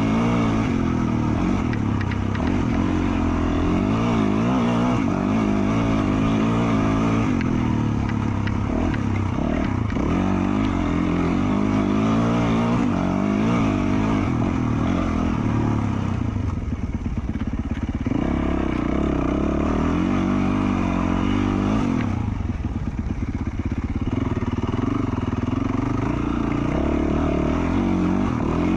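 2020 Yamaha YZ450F's 450 cc single-cylinder four-stroke engine, with an FMF Q4 slip-on exhaust, revving up and down as the dirt bike is ridden along a trail. The rider backs off the throttle briefly twice, a little past the middle and again about three-quarters of the way through.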